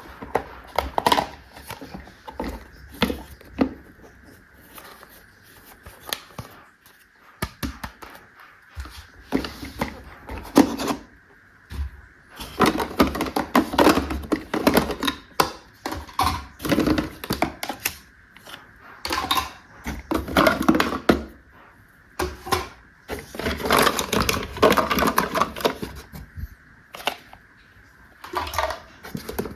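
Plastic toy pieces and packaging handled close to the microphone: scattered sharp clicks and taps, with denser stretches of handling noise in the middle and later part.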